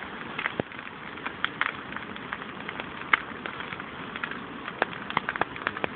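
Big bonfire crackling, with many irregular sharp pops over a steady hiss.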